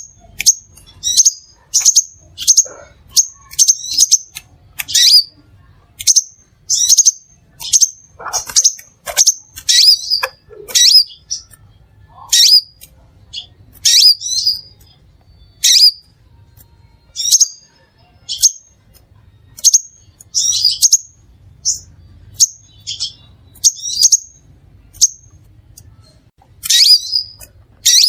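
Crimson sunbird calling: a running series of sharp, high chirps, about one or two a second, each sliding quickly down in pitch, with a short pause near the end.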